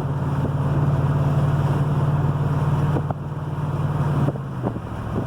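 Vehicle engine running with road noise while driving, a steady low hum that eases off about four seconds in.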